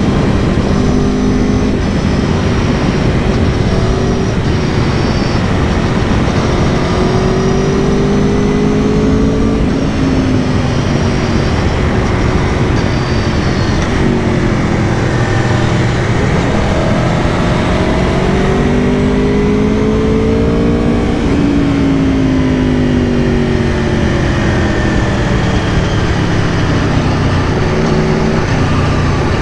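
Aprilia Tuono V4 Factory motorcycle's V4 engine running under way, its pitch climbing and then falling several times as the rider accelerates and eases off.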